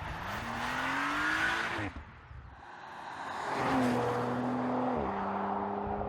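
The 2020 Audi RS5 Sportback's 2.9-litre V6 accelerating, its note rising in pitch for about two seconds before cutting off abruptly. After a short lull it comes back, holds a steady pitch, then drops to a lower pitch about five seconds in.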